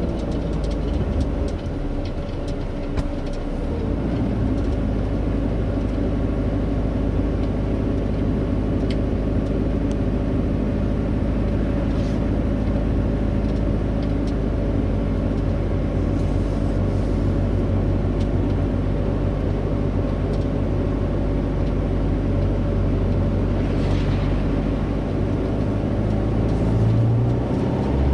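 Heavy road vehicle's engine running steadily, a low drone with road noise.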